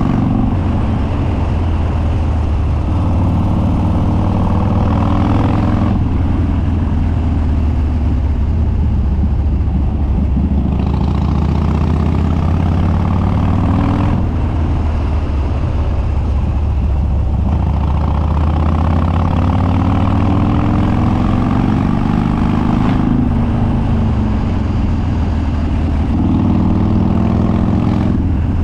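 2013 Harley-Davidson Dyna Street Bob's Twin Cam V-twin running hard through open, unbaffled dual exhausts, its pitch climbing in several pulls, each ending in a sudden drop as the throttle comes off or it changes gear.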